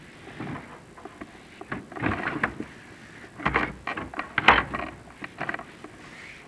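Irregular scraping and knocking as a chimney inspection camera and its cable rub against a creosote-coated flue while being lowered, with one sharper knock about two-thirds of the way through.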